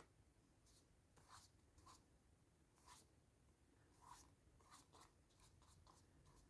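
Faint, irregular short strokes of a watercolour brush on paper, about a dozen brief brushes and dabs.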